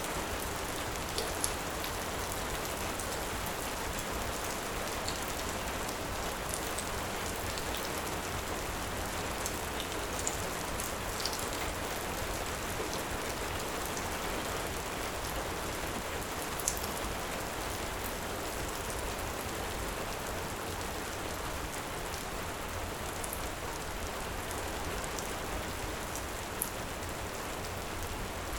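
Steady heavy rain, with a few sharp crackles scattered through it from a wood fire.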